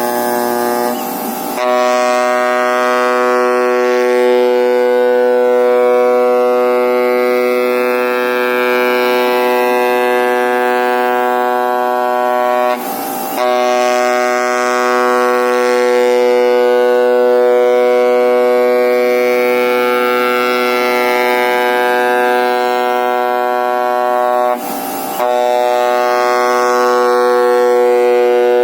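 Oscillating knife of a flatbed cutting plotter buzzing steadily at one pitch while it cuts expanded graphite gasket sheet, broken by a brief rough gap about a second in, again a third of the way through and again near the end.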